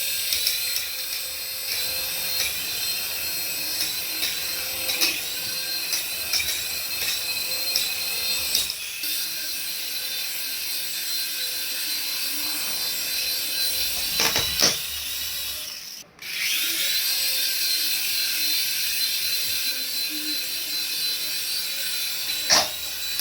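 A small electric toy motor whining steadily at a high pitch, with scattered clicks. It cuts out briefly about sixteen seconds in, then spins back up and settles at the same pitch.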